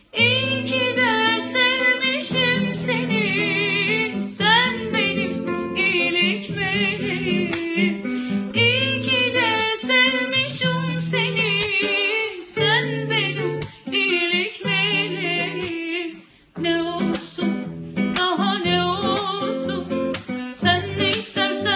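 A solo voice singing a Turkish song with a wavering, ornamented melody, over a strummed acoustic guitar. It stops briefly about 16 seconds in, then carries on.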